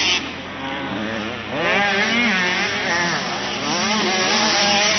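Several motocross bikes running together, their engine pitches rising and falling as the riders work the throttle, growing louder about a second and a half in.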